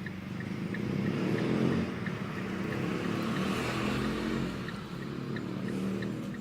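A motor vehicle engine running with a steady low rumble that wavers in pitch.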